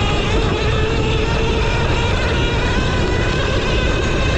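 Modded 72-volt Talaria Sting electric dirt bike riding at speed: a steady motor whine in several pitches that waver slightly, over a constant low rumble.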